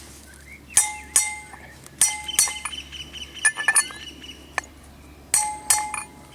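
Hammer striking a steel socket used as a drift to drive a rear wheel bearing into a VW Pointer's hub: a string of sharp metallic clinks at irregular intervals, some in quick pairs, each with a brief ring.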